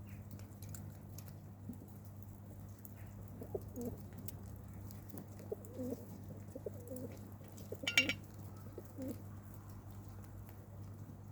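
Pigeons cooing: a string of short, low coos through the middle of the stretch, with one sharp click about eight seconds in, over a steady low hum.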